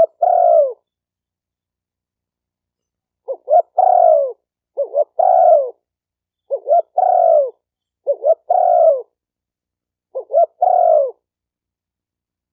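Spotted dove cooing: six phrases, each two short notes and then a longer coo that falls in pitch at its end, with a long pause after the first phrase and then a phrase about every one and a half seconds.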